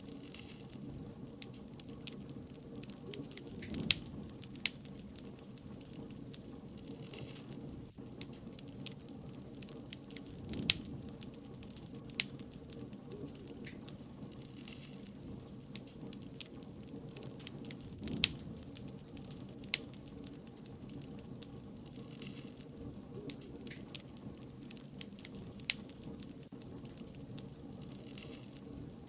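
Bonfire of wood burning: a steady low crackle and hiss with sharp pops scattered at irregular intervals, a handful of them much louder than the rest.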